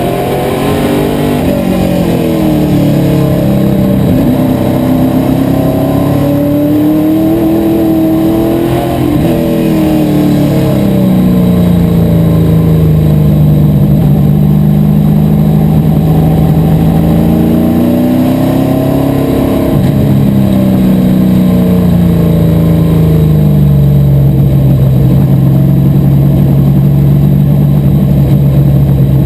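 Asphalt modified race car engine running hard at race pace, its pitch climbing and dropping again and again as it accelerates and backs off, with longer steadier stretches in between.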